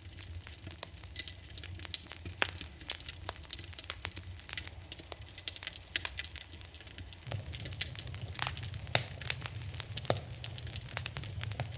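Wood fire crackling in a fireplace: irregular sharp pops and snaps over a low steady rumble of the flames, which grows louder about seven seconds in.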